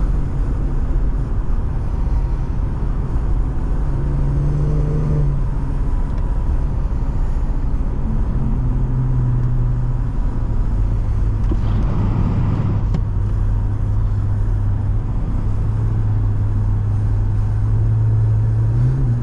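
Exhaust note of a 2017 Infiniti Q60 Red Sport's 3.0-litre twin-turbo V6 through the Infiniti Performance exhaust, heard from the cabin on the move. The low engine note climbs in pitch about four seconds in, drops back, holds steady, then climbs again near the end, with a brief rush of noise about twelve seconds in.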